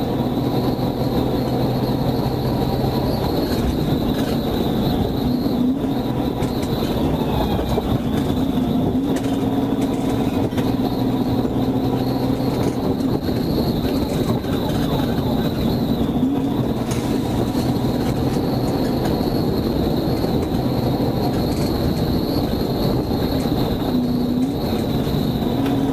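Steady, loud road and engine noise of a vehicle driving at speed, a continuous rumble with a faint steady whine over it.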